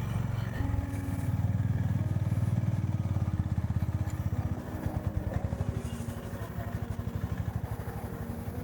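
Motorcycle engine running under way. The engine note rises about half a second in, then eases off near the middle into a lower, pulsing throb as the throttle is backed off.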